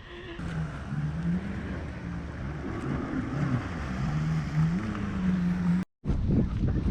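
Motorboat engine running, its pitch rising and falling as the throttle changes; the sound cuts off abruptly near the end.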